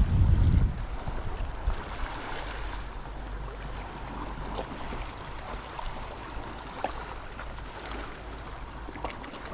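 Seaside ambience of gentle waves on the shore, a steady wash of water sound. Wind buffets the microphone with a low rumble in the first second, then eases off.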